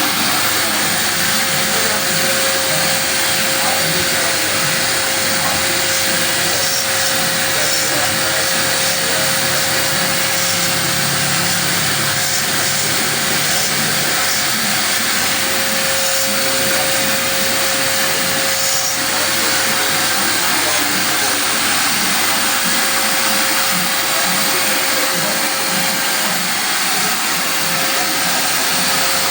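A machine running with a loud, steady hiss and a constant mid-pitched hum that holds unchanged throughout.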